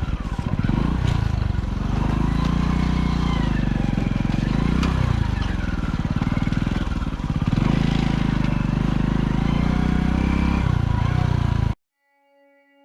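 Motorcycle engine running while riding along a rough track, its pitch rising and falling as the throttle opens and closes. It cuts off suddenly near the end, and faint, long-held musical tones follow.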